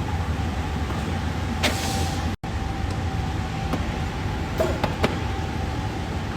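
Steady background rumble and hum with a faint constant tone, broken by a few light taps, and cut off for an instant about two and a half seconds in.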